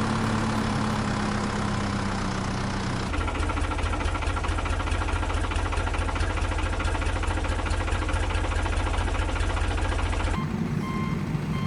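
Heavy vehicle's diesel engine running with a fast, even low chug; the engine sound switches abruptly about three seconds in. Near the end a reversing alarm starts beeping at an even pace.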